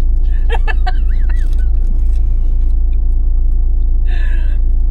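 Truck engine running, heard as a steady low rumble inside the cab, with a brief rustle about four seconds in.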